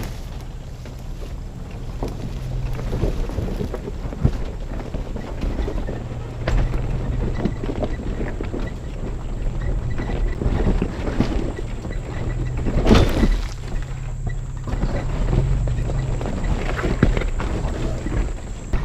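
4x4 truck driving off road: a steady low engine drone with scattered knocks and rattles from the rough trail, and one louder rushing burst about 13 seconds in.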